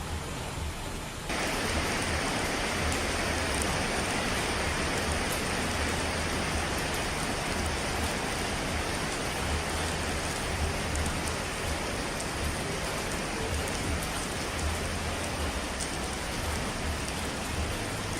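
Steady, dense rushing of falling water, like heavy rain, which jumps abruptly louder and brighter about a second in and then holds steady.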